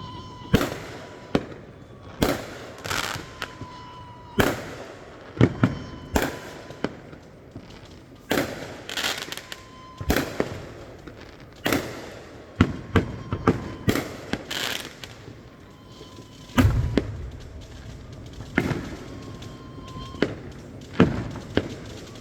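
A fireworks display going off, about twenty sharp bangs at irregular spacing, some in quick pairs, with short tails after them.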